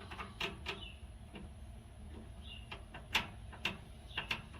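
Plastic quick-connect fitting being threaded by hand onto the plastic water outlet of a tankless water heater: irregular small clicks and taps, the sharpest about three seconds in, with a couple of brief squeaks.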